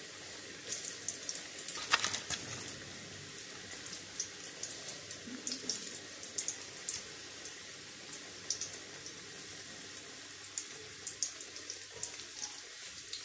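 Pakoras of gram-flour batter with potato and onion deep-frying in hot oil: a steady sizzle full of small crackling pops, with one sharper knock about two seconds in.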